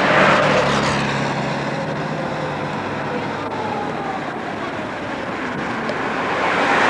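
Street traffic passing close by: two vehicles go past, one at the start and one near the end, each swelling loud and then falling in pitch as it moves away.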